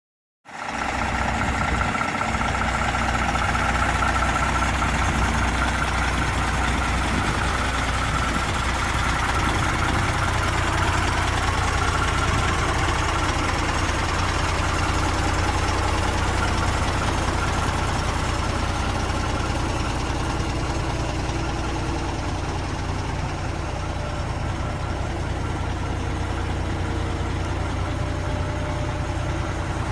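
ERF ECT 420 6x2 tractor unit's diesel engine idling steadily. The sound comes in abruptly about half a second in and then holds at an even level.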